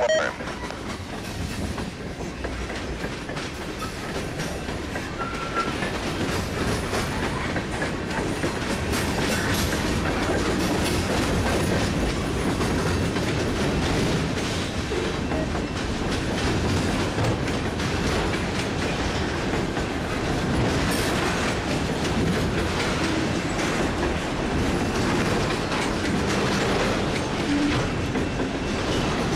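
Freight train cars (tank cars, a covered hopper and autorack cars) rolling past close by: a steady rumble of steel wheels on rail with many quick clicks. It grows a little louder after the first few seconds.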